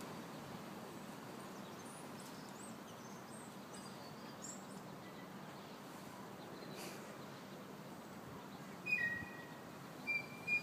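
Steady outdoor background noise with faint scattered high bird twitters, then a few short, clear, high-pitched bird chirps near the end, the loudest sounds here.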